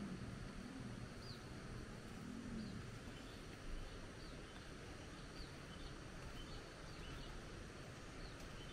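Faint outdoor ambience with small birds giving short, high, falling chirps about once a second over a steady hiss. A low wavering hum fades out about three seconds in.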